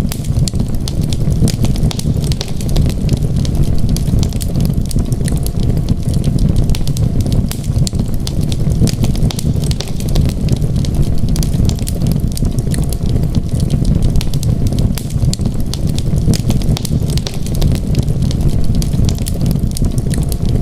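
Wood fire crackling in a fireplace: a constant scatter of sharp pops and snaps over a steady low rumble.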